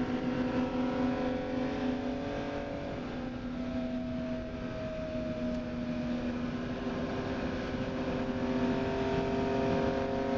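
Ferrari 250 GTO's three-litre V12 running at high, fairly steady revs at racing speed, heard from inside the car over a rush of wind and road noise.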